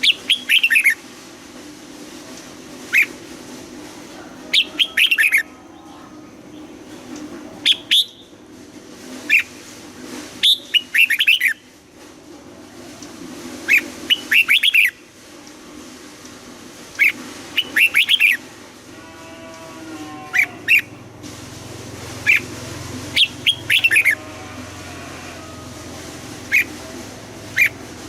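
Red-whiskered bulbuls singing short, quick phrases of bright, rapid notes, a burst every second or two, over a steady low hum.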